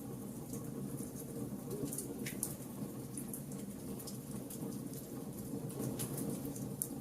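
Wood fire burning: a steady low rush of flames under irregular sharp crackles and pops from the burning wood, with a louder pop about two and a half seconds in and another near the end.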